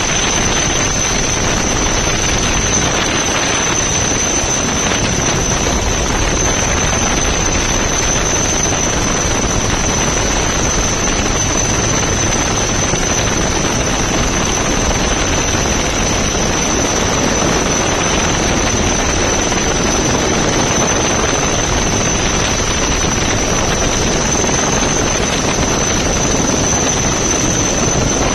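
Helicopter running steadily, a loud constant noise with a steady high-pitched whine over it.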